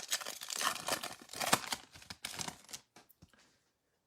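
Foil wrapper of a Topps trading-card pack crinkling and tearing as it is opened, a crackling rustle that stops about three seconds in.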